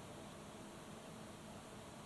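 Faint steady hiss of room tone and microphone noise, with no distinct events.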